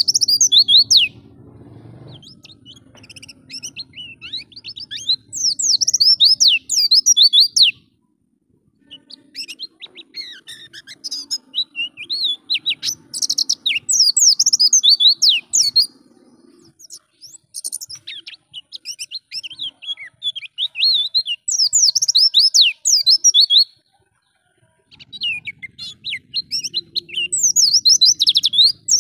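White-eye (pleci) singing: long runs of rapid, high, sweeping chirps and twitters, in phrases of several seconds broken by short pauses.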